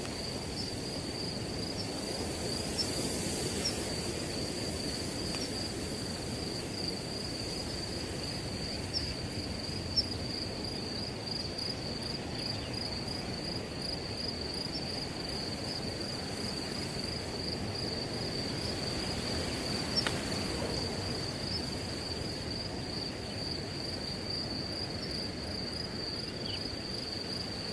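Crickets trilling steadily at one high pitch over wind rustling through grass, with a few brief ticks.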